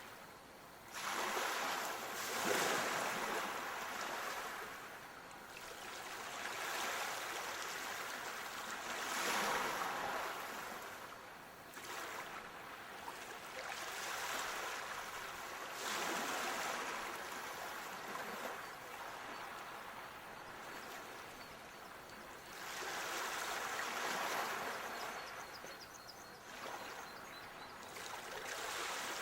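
Moving water, a steady rushing that surges and eases every few seconds.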